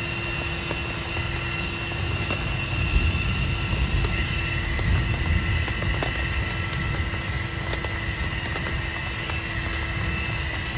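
Heavy rain falling steadily, over a deep, wavering low rumble and a few faint steady high tones.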